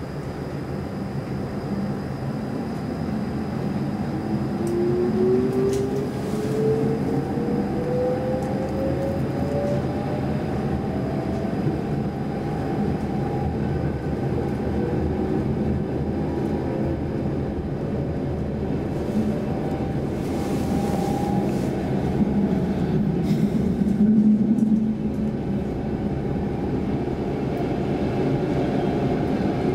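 Saltsjöbanan C10 electric commuter train heard from inside the carriage as it pulls away and runs along the track: a steady rumble, with a whine that rises in pitch over the first dozen seconds as the train gathers speed.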